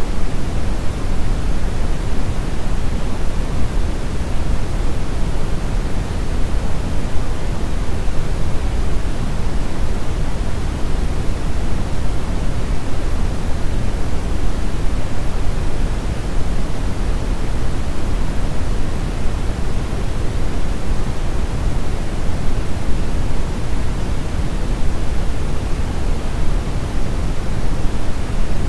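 Brown noise: a steady, deep rushing hiss, strongest in the bass, with no change or events.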